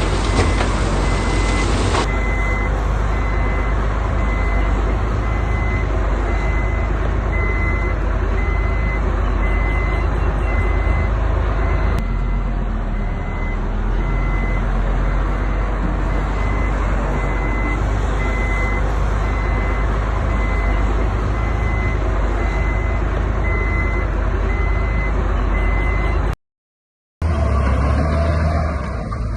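Heavy diesel construction machinery running loudly, with a reversing alarm beeping over and over, the sign of a truck or machine backing up. The sound cuts out briefly near the end.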